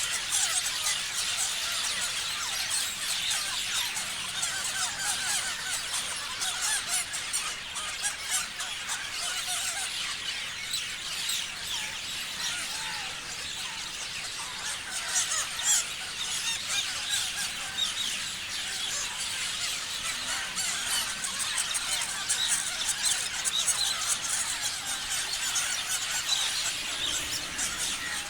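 A flock of parrots chirping and squealing over one another in a dense, continuous chorus of short, shrill calls.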